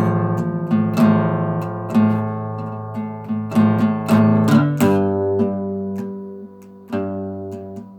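Acoustic guitar strummed in an even rhythm, its chords ringing. The chord changes a little past halfway, and one chord is left to ring for about a second and a half before the strumming starts again.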